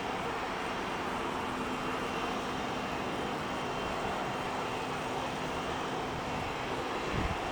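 Aircraft engines running steadily at a distance, a smooth rushing drone with a faint held hum. Low, uneven rumbles come in near the end.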